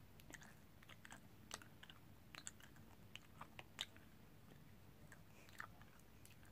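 A child chewing a sour Skittles candy with her mouth closed: faint, irregular clicks, loosest from about 1.5 to 4 seconds in.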